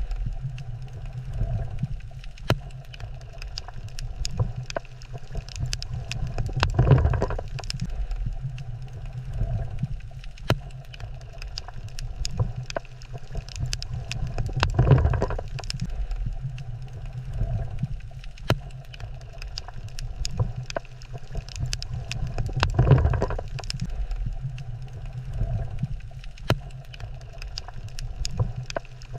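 Underwater coral reef ambience: a steady low rumble scattered with sharp clicks, swelling into a louder whoosh about every eight seconds.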